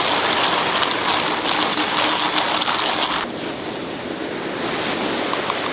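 Rushing sea waves with wind. About three seconds in it drops abruptly to a quieter steady surf, and a few light clicks come near the end.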